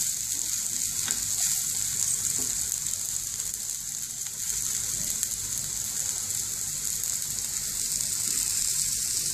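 Spiced, peanut-coated okra pieces frying in a pan, a steady high sizzle as they crisp.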